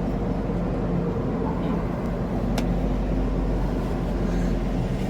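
Steady low engine drone with a constant hum, like a running vehicle, and one short click about two and a half seconds in.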